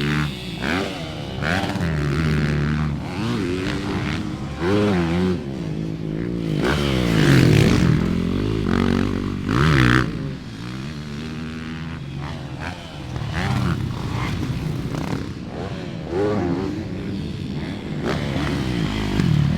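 Motocross dirt bike engine revving up and down again and again, its pitch rising and falling as the rider accelerates, shifts and backs off around the track.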